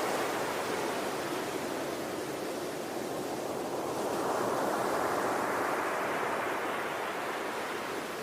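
Ocean surf washing in a steady hiss that swells about four seconds in, then eases slightly near the end.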